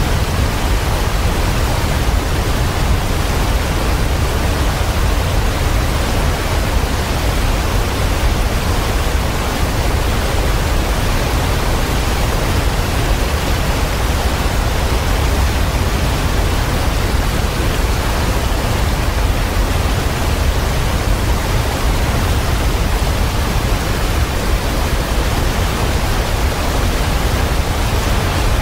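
Waterfall: a loud, steady rush of falling water, heavy in the low rumble, with no change through the stretch.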